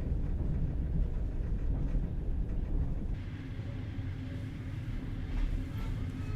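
Low, steady rumble of a moving passenger train on the BAM railway, heard from inside the carriage.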